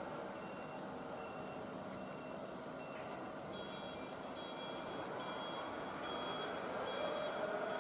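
Repeating electronic warning beeps, short evenly spaced pips that shift to a higher pitch about halfway through. Under them is the low, steady rumble of a Tobu 8000-series train slowly approaching, growing louder toward the end.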